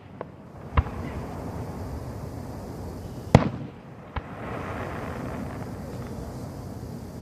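Aerial firework shells bursting at a professional 1.3 display: sharp bangs with a short echo, one just under a second in, the loudest about three and a half seconds in, a smaller one soon after, and another at the very end.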